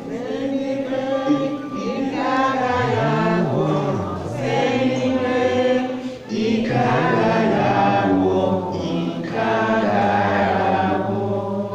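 A congregation singing a short gospel chorus together, many voices in phrases of about two seconds with brief breaks between them.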